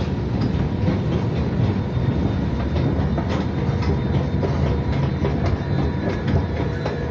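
Light-rail train heard from inside the car while running: a steady low rumble with frequent clicks from the wheels over the track, and a faint steady electrical whine.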